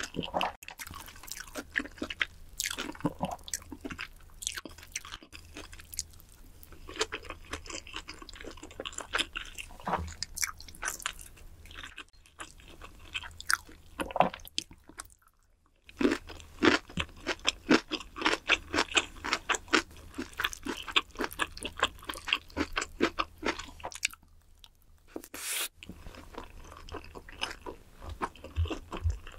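Close-miked chewing of Korean bunsik food such as kimbap and rabokki: dense, quick mouth sounds that pause briefly twice, once near the middle and once a few seconds before the end.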